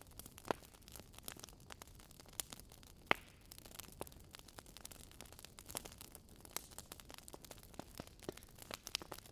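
Burning firewood crackling: irregular sharp pops and snaps, several a second, over a faint steady hiss.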